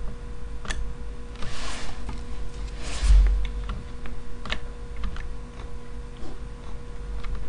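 Computer keyboard and mouse clicks, scattered and irregular, with two short breathy rushes of noise about one and a half and three seconds in, over a faint steady electrical hum.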